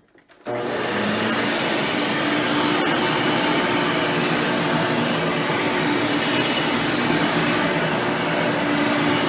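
Hoover Power Drive Supreme upright vacuum cleaner, fitted with a 20-blade impeller fan, running steadily: an even rush of air with a low hum beneath it. The sound comes in abruptly about half a second in.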